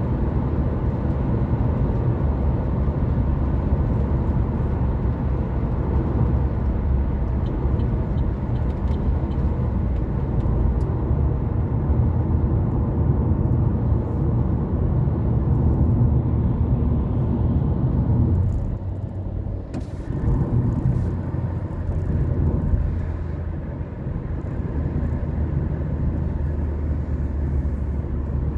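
Car driving along a road: a steady engine drone with tyre and road noise. About two-thirds of the way through it dips briefly, then settles into a steady lower hum.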